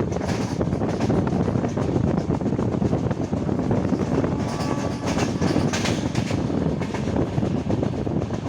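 Passenger train running along the track: a steady rumble of wheels on rail, with a brief brighter hiss and faint high whine about five seconds in.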